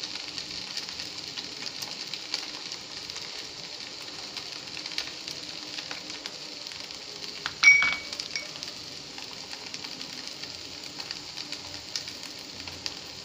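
Sago and potato mixture sizzling gently in oil in a pan, with a steady hiss and faint small ticks. A sharp ringing clink about eight seconds in.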